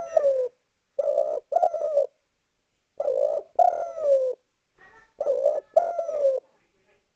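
Spotted dove (derkuku) cooing: three two-note coo phrases about two seconds apart, each low note sliding down at its end. This is the male's call to other doves and rivals.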